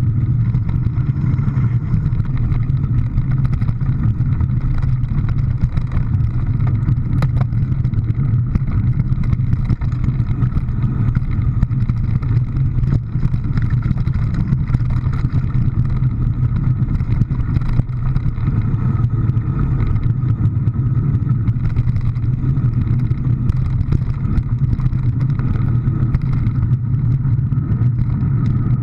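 Steady drone of a vehicle under way, a low engine and road rumble holding an even pace without revving up or down.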